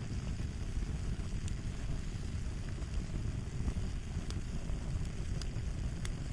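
Fire crackling: a steady low rumble of burning with scattered sharp pops and snaps.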